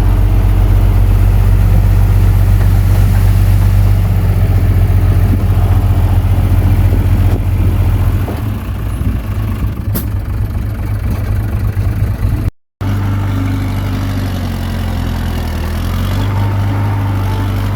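Komatsu D21P bulldozer's diesel engine running steadily and low, easing off about eight seconds in, with a single sharp click a little later. The sound breaks off for a moment about two-thirds through, then the engine sound carries on.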